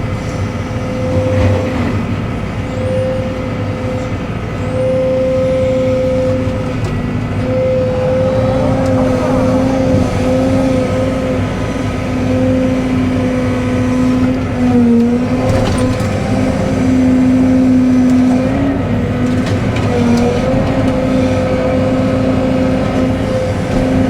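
Cat 313 excavator's diesel engine and hydraulics running steadily under working load, with a steady whine whose pitch dips briefly twice, about two-thirds of the way in, as the hydraulics take load.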